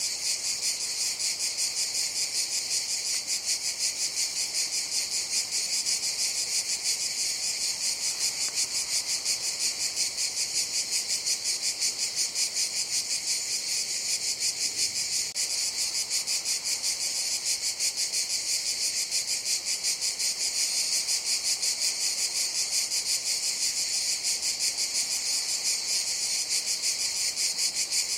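Cicadas singing in a steady, high-pitched chorus with a fast, even pulse.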